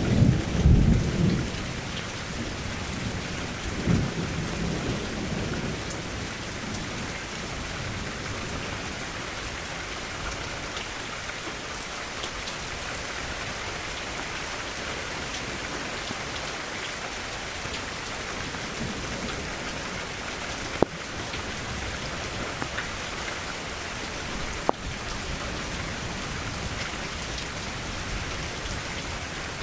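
Steady rainfall with low rumbles of thunder in the first few seconds, then continuous rain with two sharp taps later on.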